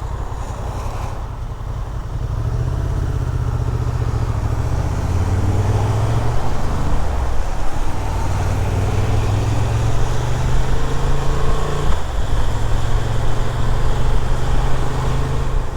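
Motorcycle engine running under way, with wind rush on an onboard microphone. The engine note climbs over the first few seconds and breaks briefly twice, about halfway and again about three quarters through, like gear changes.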